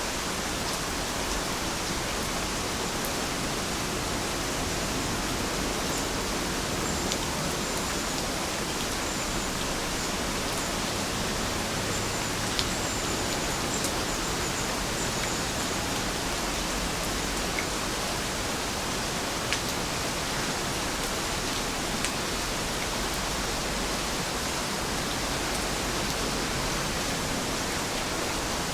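Heavy rain falling steadily, a dense even hiss, with now and then a single louder drop tapping.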